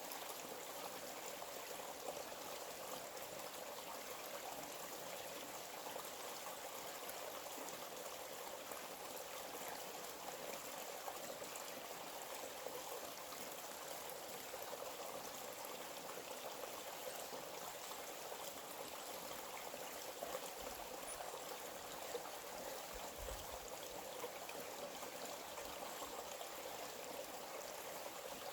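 A small forest stream flowing steadily, an even rushing and trickling of water.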